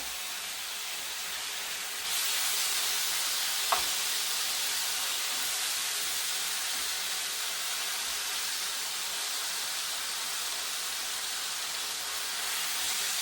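Seasoned chicken frying in hot vegetable oil in a pan, a steady sizzle that grows louder about two seconds in. One short click near four seconds.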